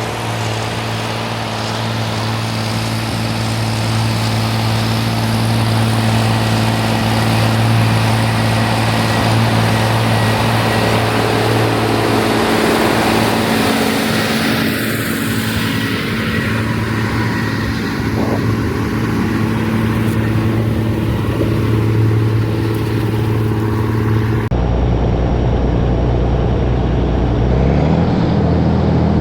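Rába 250 tractor's diesel engine running steadily and loud. About 24 seconds in, the sound changes abruptly to a deeper, heavier engine note whose pitch rises and falls near the end.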